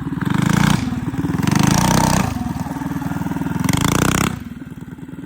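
Mini bike engine revved up and eased back several times in quick surges, then dropping to a lower, quieter note a little after four seconds in. The rider says its carburettor still needs tuning.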